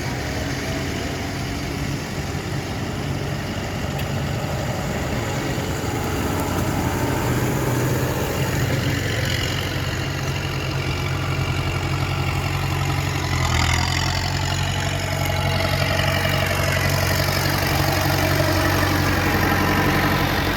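Tractor engines running in a steady low drone, with another engine's pitch rising and falling from about halfway through.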